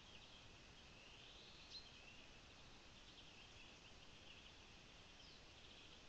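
Faint birdsong: scattered high chirps, with one rising whistle about a second in and a short falling note near the end.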